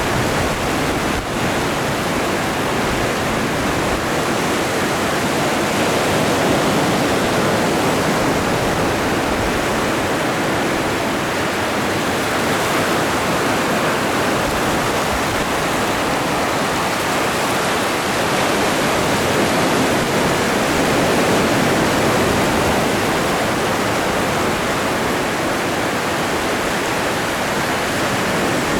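Atlantic Ocean surf: waves breaking and washing ashore as a steady rushing, swelling slightly a couple of times.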